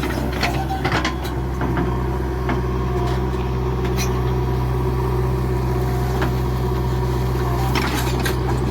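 Heavy diesel engine running steadily at a constant speed, with scattered light clicks and knocks over it.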